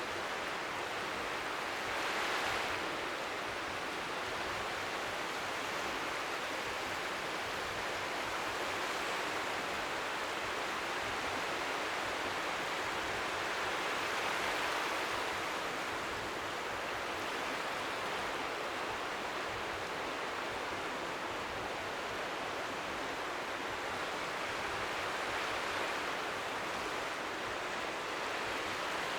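Steady hiss of strong seaside wind with faint waves lapping on the shore, an even white-noise wash that swells gently a few times.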